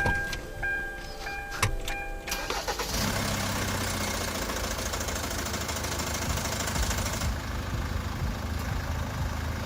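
Dashboard chime beeps and a few clicks, then about two and a half seconds in the Kia Grand Carnival's R diesel engine cranks, catches and settles into a steady idle on freshly changed engine oil.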